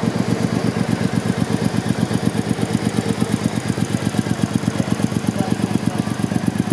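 Triumph Bonneville America 865's parallel-twin engine idling steadily, with an even exhaust pulse that holds the same speed throughout.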